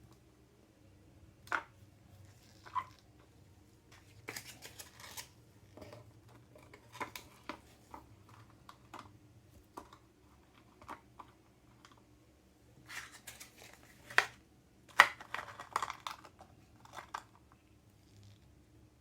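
Intermittent handling sounds: small sharp clicks and taps with stretches of rustling and scraping, in clusters, the loudest clicks about two thirds of the way in.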